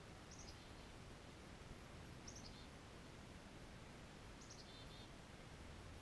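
Faint high bird calls, short slightly falling notes repeated three times about two seconds apart, over a steady quiet outdoor hiss.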